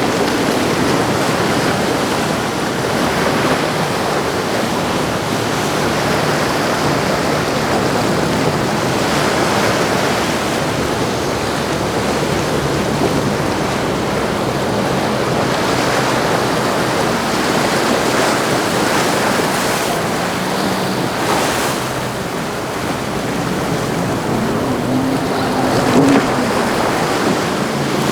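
Steady rush of waves in the inlet with wind buffeting the microphone, and under it the low drone of the Tiara 49 Coupe's engines as the yacht runs through the surf.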